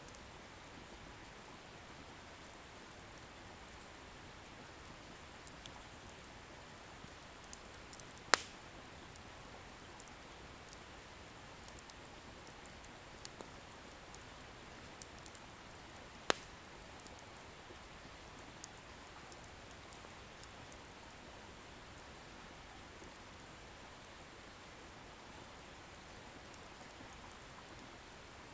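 Wood bonfire burning with a soft steady hiss and faint scattered crackles, and two sharp pops from the burning firewood, about eight seconds apart.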